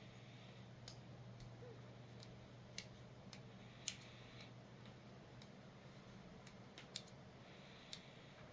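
Sparse, irregular metallic clicks of a Leatherman Signal multi-tool being worked open and shut, its pivots oiled to loosen old grime. The loudest click comes about four seconds in, with a faint low hum underneath.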